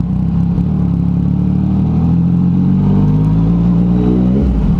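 Yamaha MT-09's three-cylinder engine through an aftermarket exhaust, pulling up through the revs under acceleration. The pitch rises steadily for a few seconds, then drops suddenly near the end.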